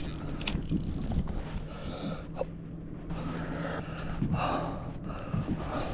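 A person gasping and breathing hard in short irregular breaths, with a faint steady low hum underneath.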